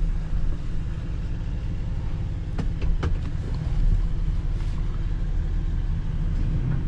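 Car engine running with a steady low rumble, with a few light clicks about two and a half to three seconds in.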